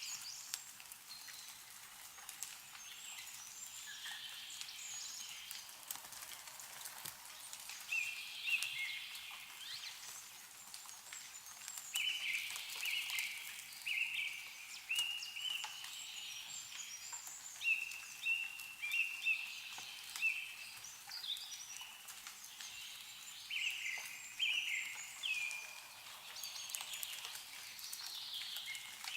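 Small songbirds calling and chirping in short repeated notes, busiest in the middle of the stretch, with scattered light drips of meltwater falling from snow-covered trees.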